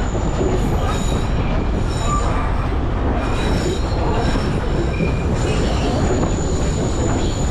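Narrow-gauge sugar-cane train running along the track, heard from aboard: a steady rumble of the carriage, with high wheel squeal coming and going as it winds along.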